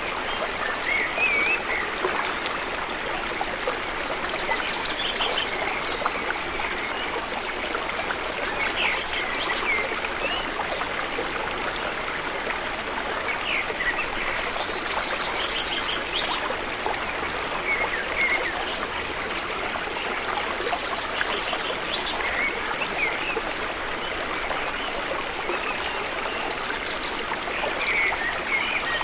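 River water flowing steadily, a constant rushing and trickling. Short high chirping calls come through every few seconds.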